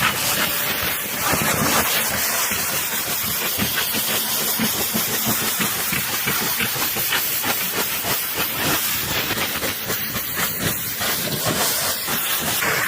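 Pressure washer spraying: a steady, dense hiss of high-pressure water.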